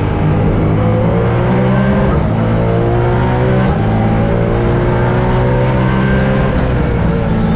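Modified BMW M3 race car's engine running hard on track, its pitch climbing under throttle and dropping back at gear changes or lifts a few times.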